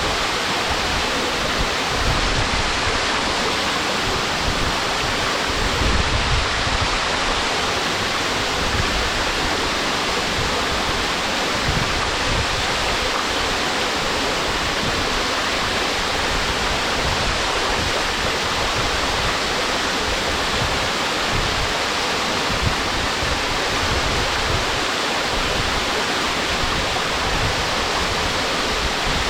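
Small waterfall (Tengu-daki) pouring into a pool, a steady, even rush of falling water with some low rumbling gusts.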